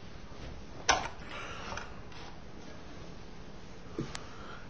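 Low room noise with a sharp click about a second in and a fainter tick near the end.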